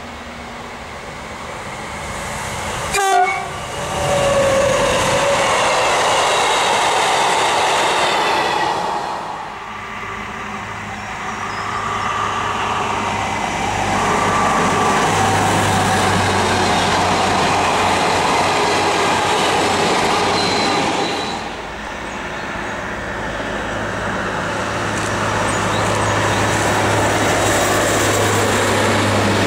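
Trains passing close by. First a locomotive-hauled train sweeps past with a loud burst and a brief horn about three seconds in. Then Y 8000 diesel shunting locomotives go by hauling coaches and freight wagons, with a steady low diesel engine hum over the rumble of wheels on the rails.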